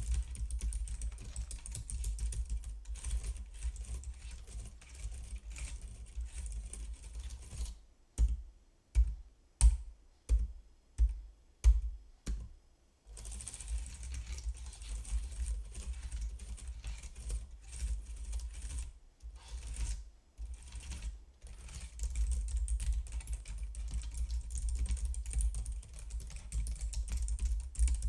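Typing on a computer keyboard: fast, continuous key clicks. About a third of the way in, the typing slows to about seven separate, louder key presses roughly two-thirds of a second apart, then fast typing resumes.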